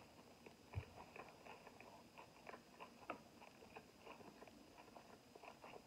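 Faint close-up chewing of a carne asada taco: soft wet mouth clicks scattered throughout, with one soft thump about a second in.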